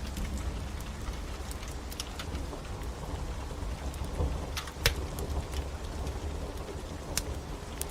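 Steady rain with a low rumble under it, and a wood fire crackling with scattered sharp pops, the loudest about five seconds in.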